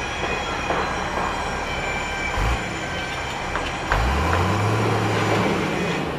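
Construction-site machinery noise: a steady loud din with high metallic squeals running through it. There is a heavy thud about two and a half seconds in, and an engine picks up and rises in pitch about four seconds in before holding steady.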